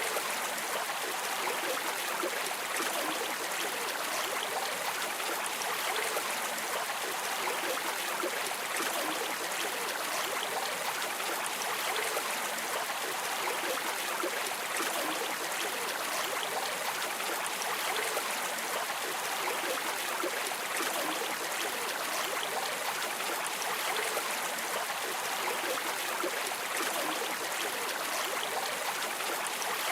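Running water of a stream, an even, steady rush with no breaks.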